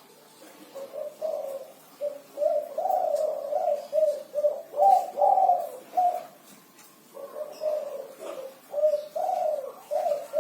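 A spotted dove (derkuku) cooing its 'kuk 5' song. Phrases of low, rounded coo notes repeat one after another, with a short pause a little past the middle.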